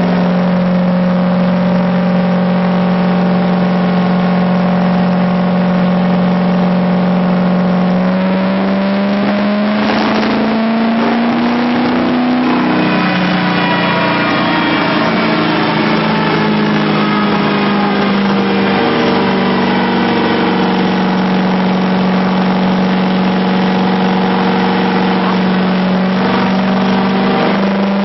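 Engine running at a held speed. The pitch climbs a little about a third of the way in, then settles and shifts a few times between steady speeds.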